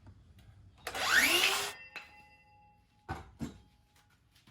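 Power saw cutting through a small piece of wood: a rising whine as it spins up and a loud cut lasting about a second, then a faint ringing tone as the blade winds down. Two knocks follow near the end, like the wood being handled.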